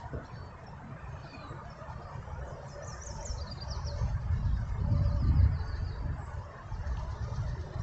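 Wind buffeting the microphone in gusts, with a low rumble that swells about four to five seconds in. Faint high chirps come in twice, once about three seconds in and once about five seconds in.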